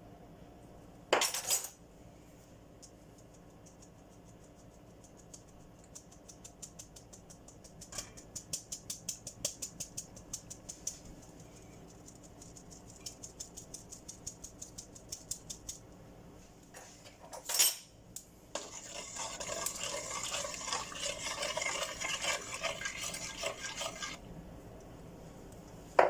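Kitchen utensil sounds during food preparation. A sharp clatter comes about a second in, then a long run of quick, regular taps. Another clatter follows, and then several seconds of dense scraping and rustling.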